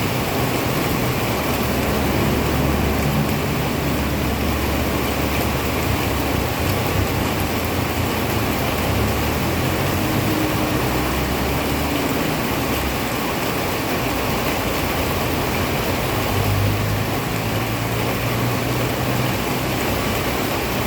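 Heavy rain falling steadily, with a low motor-vehicle engine rumble underneath that shifts now and then.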